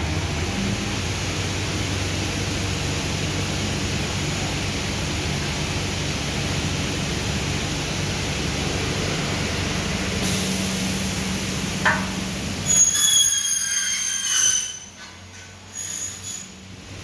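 Double-head cutting saw running with a steady motor hum, then its blades cutting through a profile with a high, ringing metallic squeal for about two seconds, after which the level drops and a few short squeals follow.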